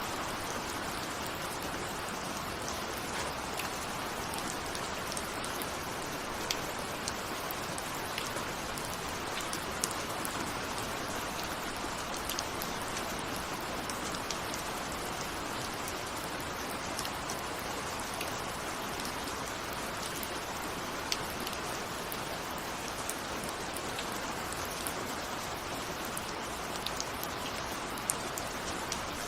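Steady rain falling, with scattered individual raindrop ticks on a window.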